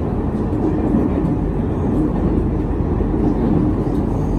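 Steady running noise of an Aonami Line electric commuter train heard from inside the passenger car: an even low rumble of wheels on rail and car body at speed between stations.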